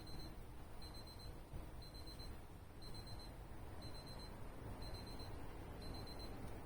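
Faint high-pitched electronic beeping: a short chirp of quick pulses repeating about once a second, over a low background rumble.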